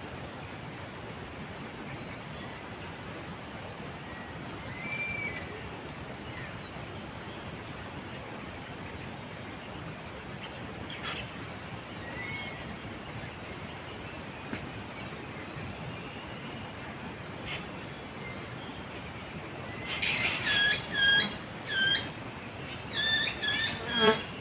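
Steady high buzzing of insects with a fast pulsing trill. About 20 seconds in, a Philippine hanging parrot (kulasisi) gives two runs of loud, shrill, squeaky calls, several short notes each.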